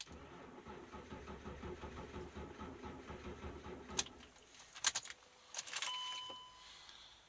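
BMW E39 525tds diesel straight-six running with a rhythmic chug for about four seconds, then falling away. A few sharp clicks and a short electronic beep follow.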